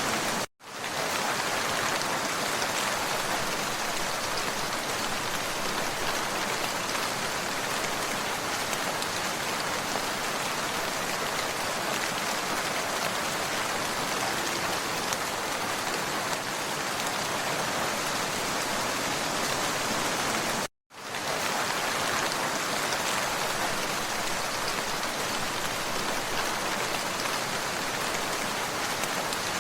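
Steady rain falling, an even hiss of drops. It cuts out to silence for a moment about half a second in and again about 21 seconds in, fading back up each time, as at the joins of a looped recording.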